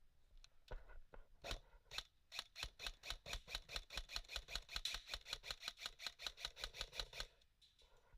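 Airsoft gun firing a rapid string of shots, about six a second, after a few irregular opening shots; the firing stops suddenly near the end.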